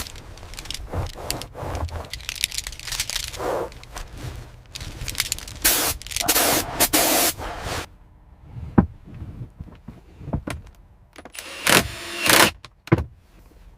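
Workshop clatter: a string of knocks and scrapes, with louder hissing bursts about six seconds in and again near the end.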